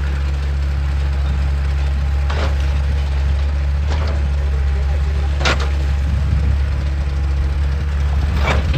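Excavator's diesel engine running steadily with a deep, even drone, broken by four short sharp knocks spaced a second or more apart.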